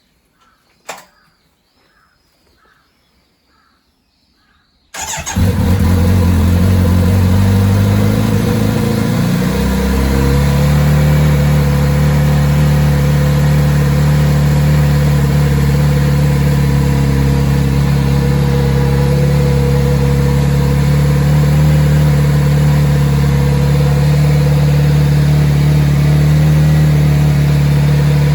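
Kawasaki Z900RS's 948 cc inline-four engine starting about five seconds in after months of storage, cold. It runs at a raised fast idle for a few seconds, then drops to a lower, steady idle as it settles.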